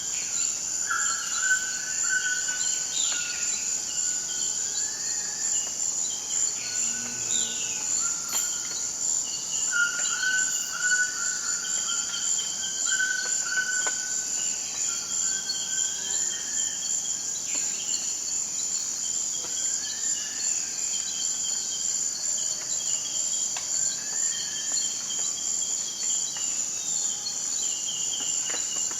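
Forest ambience: a steady, high-pitched insect trill throughout, with birds calling over it in short, repeated notes and whistles.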